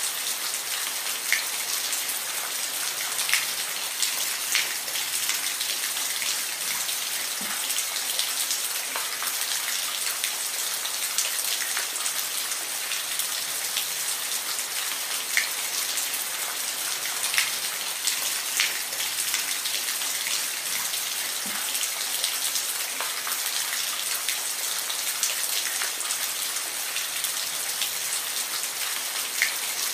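Steady rain falling, an even hiss with scattered louder individual drops ticking on a surface every second or so.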